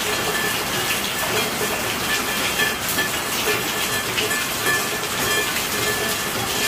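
Steady rainfall: a dense, even hiss with scattered louder drop hits.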